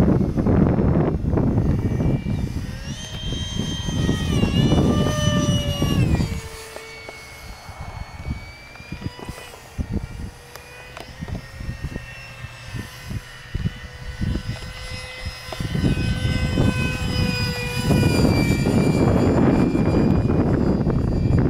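Small electric ducted fan of a foam RC F-35 jet (64 mm, 4300kv) whining in flight, its pitch sliding down about five seconds in and shifting with throttle as it passes. Heavy wind rumble on the microphone, easing off in the middle.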